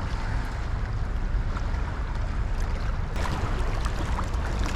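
Wind buffeting the microphone over the steady rush of river water, with a single sharp click about three seconds in.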